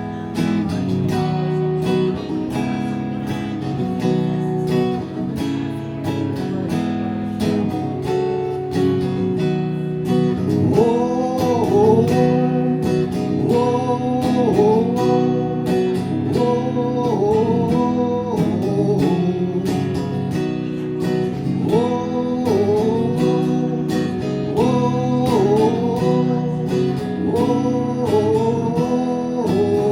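Acoustic guitar strumming the song's instrumental outro. From about eleven seconds in, a repeating melody that rises and falls runs over the chords.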